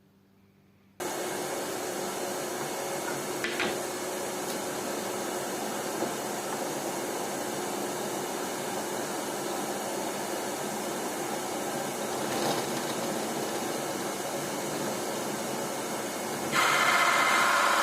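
Drill turning a hole saw as it cuts a round cutout through a wood board: a steady motor whine with cutting noise that starts suddenly about a second in and grows louder near the end.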